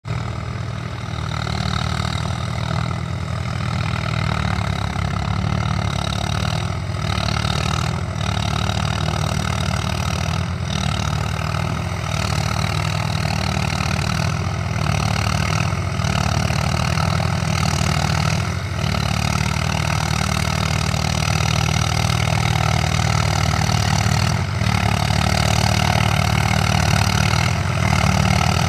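Eicher tractor's diesel engine labouring under heavy load while pulling a trolley. Its deep, steady note dips briefly a few times.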